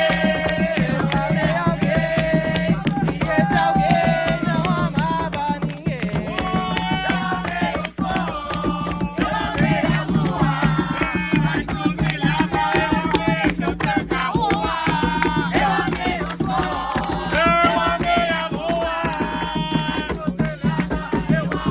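Umbanda ponto music: atabaque hand drums playing a steady, driving rhythm under a melody line that may be voices singing.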